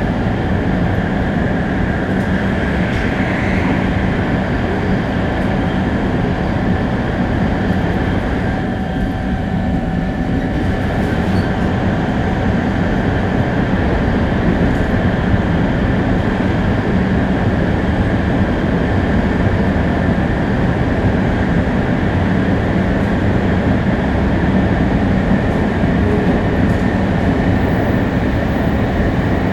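Shinkansen 500 series bullet train (Toshiba GTO-VVVF traction) heard from on board while running at speed: a steady, loud rolling rumble and hiss with a few thin steady whines over it.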